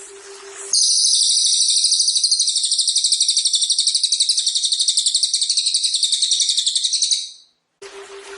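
A long, loud, high-pitched buzzing trill made of very rapid even pulses, played as songbird masteran material. It starts abruptly about a second in and fades out near the end, and the background music returns just after.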